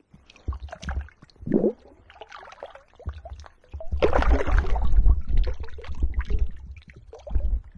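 River water sloshing and splashing as a barbel is released back into the river, loudest about four to five and a half seconds in, over a low rumble.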